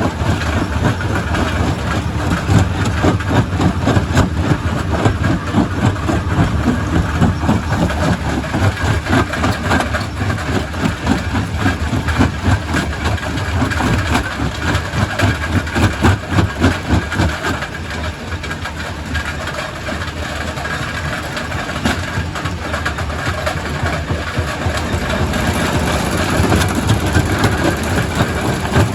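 Quarry primary rock crusher running, a heavy machine drone under a constant clatter of rocks knocking and grinding as they are broken. It eases off for a few seconds past the middle, then picks up again.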